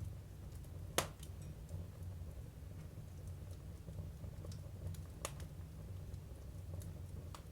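Firewood burning in a Jøtul F305 wood stove, crackling and popping now and then over a low steady hum; the loudest crack comes about a second in and another about five seconds in.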